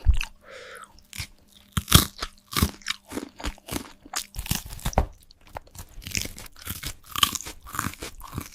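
Crunchy food being bitten and chewed, in irregular sharp crunches about one or two a second.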